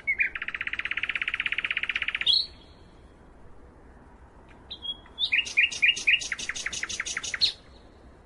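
Songbirds singing: a fast, even trill of about two seconds, then after a pause a second phrase of quick, sharp repeated notes lasting a couple of seconds.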